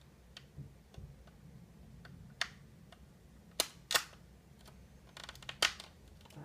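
Sharp clicks and taps of small model airplane parts being handled and fitted together. A few scattered faint clicks, two louder ones about three and a half seconds in, and a quick run of clicks a little after five seconds.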